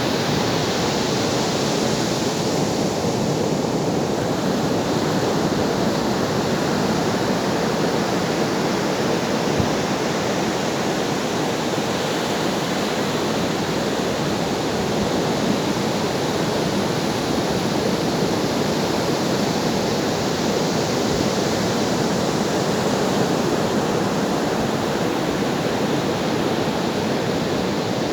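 Ocean waves and surf as a steady, unbroken wash of water noise, with no distinct swells or breaks standing out.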